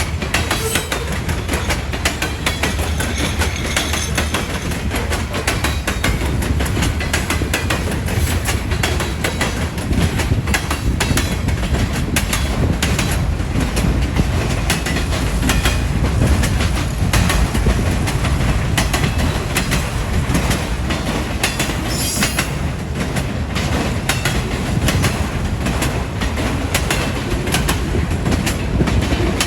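A long train's cars rolling steadily past, the wheels clacking rapidly over the rail joints over a continuous low rumble.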